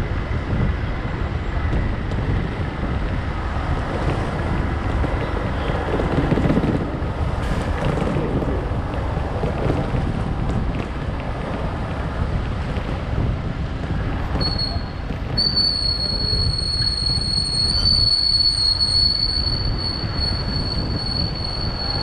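Motorcycle riding noise: wind buffeting the microphone over the engine, a steady low rumble throughout. About two-thirds of the way in, a steady high-pitched squeal starts and keeps going.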